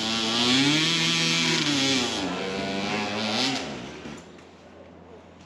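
Dirt bike engine revving hard on a steep hill climb, its pitch rising and falling with the throttle, then fading away after about four seconds.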